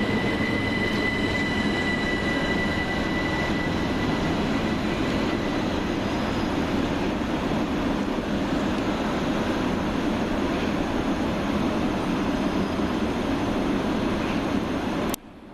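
Two coupled Class 377 Electrostar electric multiple units running into the platform, a steady rumble of wheels on rail. A high steady wheel squeal fades away over the first few seconds, and the sound cuts off suddenly near the end.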